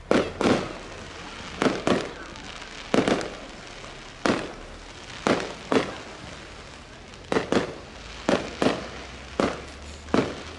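Fireworks display: a rapid series of sharp bangs from bursting shells, many in close pairs, about one or two a second, each trailing off briefly.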